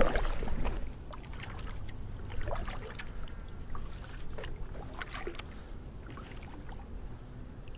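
Kayak on the water being paddled: light splashes and water dripping off the paddle in scattered small strokes over a steady low rumble.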